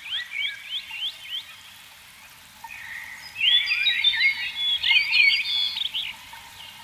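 A chorus of calling frogs: a run of short rising chirps about four a second, then a louder, denser tangle of overlapping calls from about three seconds in that eases off near the end.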